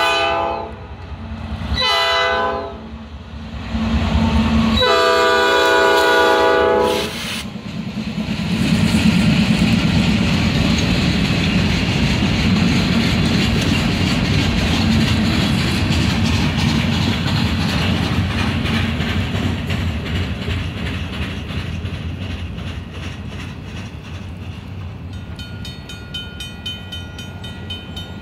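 Norfolk Southern diesel locomotive horn sounding for a grade crossing: two shorter blasts, then a long blast of about two and a half seconds. The locomotives' diesel engines then rumble past with wheels clacking on the rails as the short train rolls slowly by. The crossing signal bell rings with a steady, rapid tone, clearest near the end once the train has passed.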